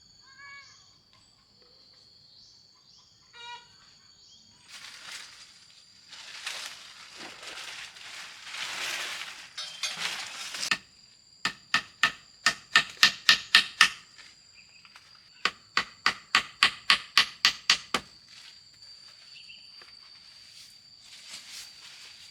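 Hammer driving nails into wood: two runs of about ten quick, even blows, around four a second, after several seconds of rough rasping. Insects trill steadily throughout.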